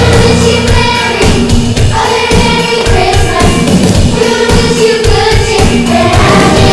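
A choir singing with instrumental accompaniment and a steady beat.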